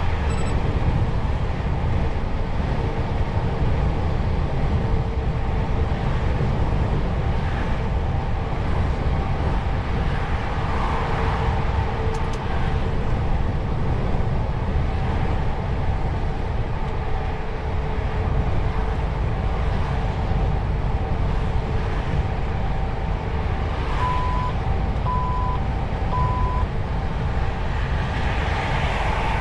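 DAF XF truck driving along: steady engine and road rumble. Near the end there are three short beeps of one pitch, about a second apart.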